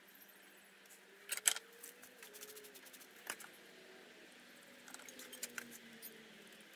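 Quiet clicks, taps and light scraping of small objects being handled, with a louder cluster of clicks about a second and a half in and more near the end.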